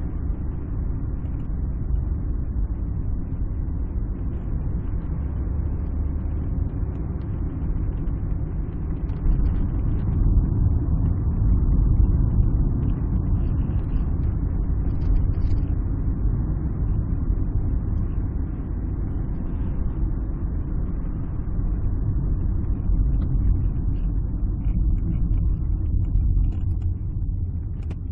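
Alfa Romeo 156 on the move, heard from inside the cabin: a steady low rumble of engine and road noise that swells slightly about twelve seconds in.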